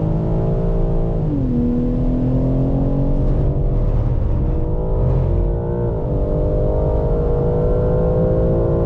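BMW M3 safety car's twin-turbo straight-six heard from inside the cabin, pulling hard on track. Its pitch climbs and drops sharply with each upshift, several times.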